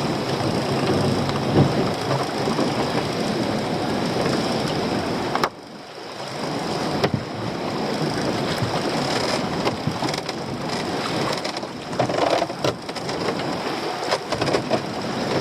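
Wind buffeting the microphone over choppy sea on a small boat, a dense rushing noise; it drops away sharply about five seconds in, then builds again, with scattered knocks in the second half.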